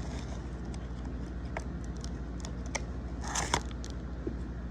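Packaging being handled and pulled apart: scattered rustling, crinkling and small clicks of plastic and cardboard, with a denser burst of crinkling about three and a half seconds in, over a steady low hum.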